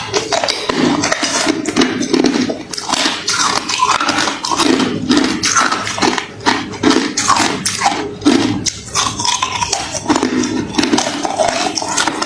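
Close-miked crunching and chewing of hard, refrozen crushed ice: a dense run of sharp cracks and crunches with brief pauses.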